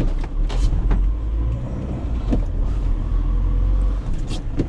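Van driving, heard from inside the cab: a steady low engine and road rumble, with a few sharp clicks and knocks.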